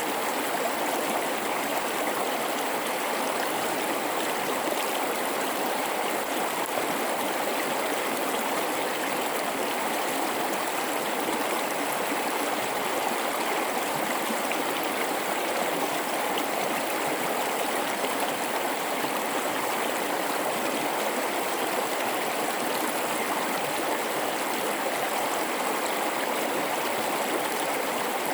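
A mountain river flowing through a rocky gorge: a steady, even rush and babble of water over rocks.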